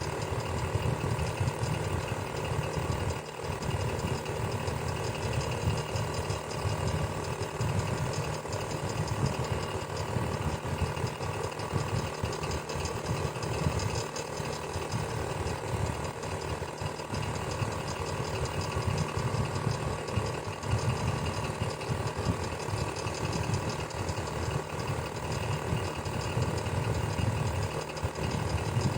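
Electric fan running steadily: a low motor hum with a fast, even rattle riding on it, and a faint steady whine above.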